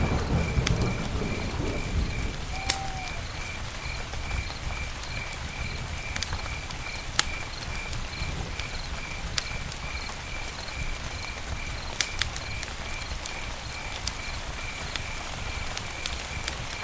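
Campfire crackling, with a steady low rumble and scattered sharp pops. A steady high chirp repeats two or three times a second throughout.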